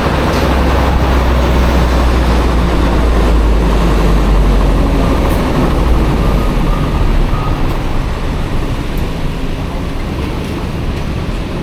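Road and traffic noise from a small scooter riding through city streets, with a heavy low rumble for the first seven seconds or so that then eases off.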